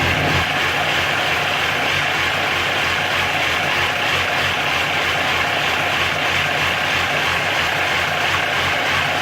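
MV Agusta Brutale 1090's inline four-cylinder engine idling cold on the choke, fitted with an aftermarket ECU and velocity stacks. It runs steadily with a slight waver in its low note.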